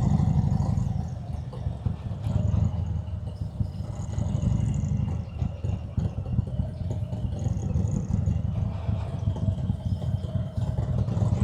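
Harley-Davidson Road King Special's Milwaukee-Eight V-twin engine running at low revs, a steady low rapid pulsing.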